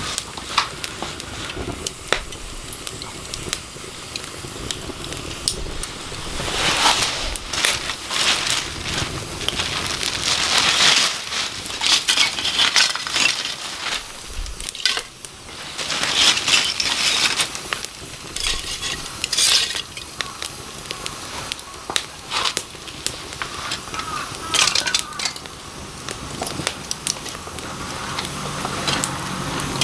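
A small wood fire crackling and hissing, with frequent sharp clicks and clinks as pieces are knocked and handled, in swells of louder hissing every few seconds.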